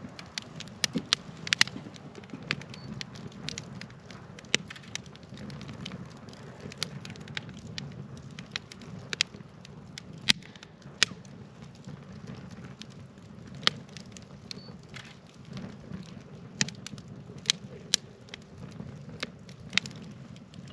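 Wood fire burning with a steady low rumble of flames and irregular sharp crackles and pops, a few of them loud.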